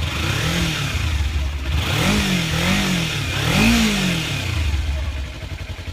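Kawasaki Ninja 300's parallel-twin engine, on its stock exhaust, revved in four throttle blips, each pitch rising and falling back, the highest a little past the middle, then settling to idle near the end.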